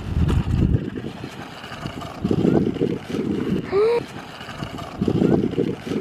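Wind buffeting the microphone in uneven gusts of low rumble, with one short rising-then-falling pitched sound about four seconds in.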